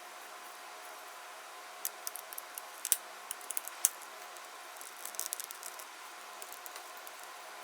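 Aquarium air pump running with a steady hum, with scattered small sharp clicks and taps about two and five seconds in.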